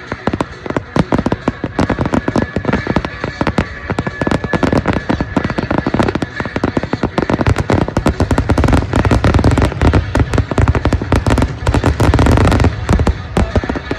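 Fireworks going off in rapid succession, a dense crackle of bangs that builds into a heavier, louder barrage about eight seconds in and eases off near the end.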